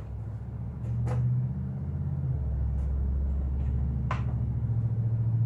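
A low, steady rumble with a few light clicks as compression tester fittings are handled and tried in the spark-plug hole.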